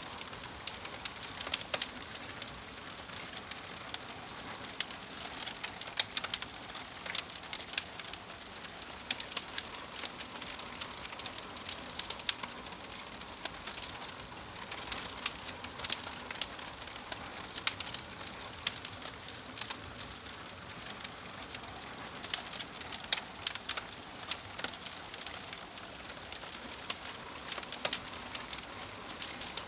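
Crackling fire: a steady hiss broken by frequent, irregular sharp pops and snaps.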